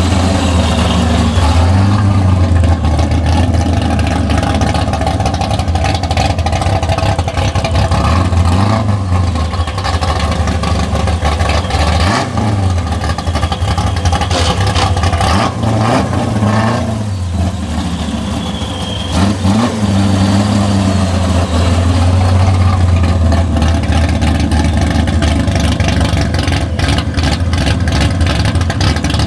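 Loud car engines running, with several short revs that rise and fall in pitch and a brief lull about eighteen seconds in; big V8 muscle car engines.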